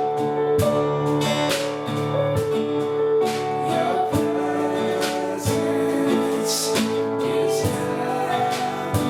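Worship music with strummed acoustic guitar, steady and continuous.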